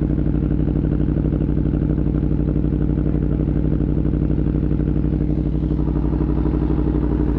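Aprilia Tuono V4's V4 engine idling steadily through an SC-Project exhaust.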